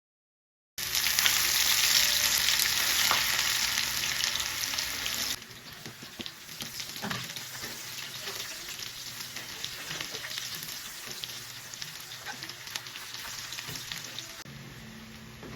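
Food frying in hot oil in a pan, starting with a loud sizzle. About five seconds in it drops abruptly to a quieter sizzle with scattered clicks, as from stirring.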